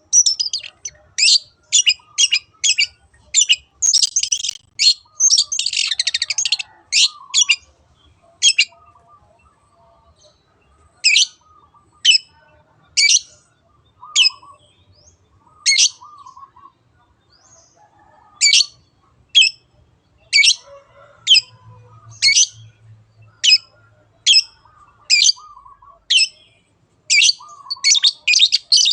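Long-tailed shrike (cendet) giving repeated short, harsh 'teot' calls: a fast run with a dense scratchy burst, a brief pause, then calls spaced about one a second that quicken again near the end.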